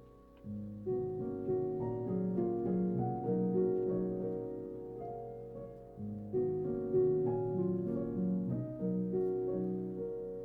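Soft background piano music: slow, gently struck chords and melody notes, in two phrases, the second beginning about six seconds in.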